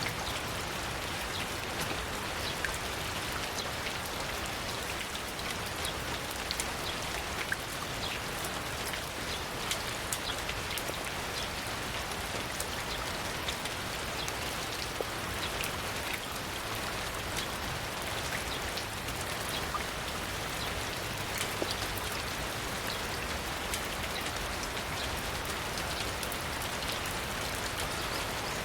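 Steady rain falling, with many separate drops ticking sharply against a surface over an even hiss.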